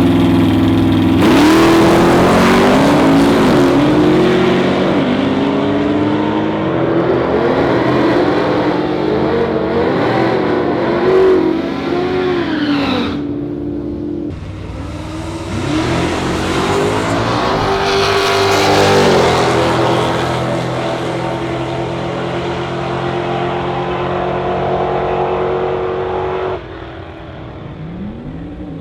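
V8 drag cars accelerating hard down a dragstrip. The engine pitch climbs and drops back at each gear change, several times in a row. After a break about halfway, a second run follows with engines pulling at steadier revs.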